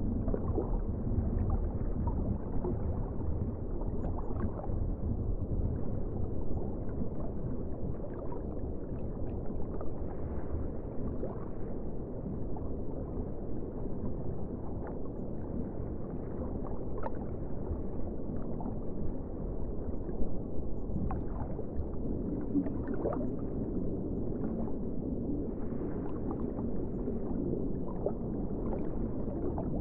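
Muffled ocean water: a steady low rumble with scattered small clicks and gurgles, nothing bright or hissing in it.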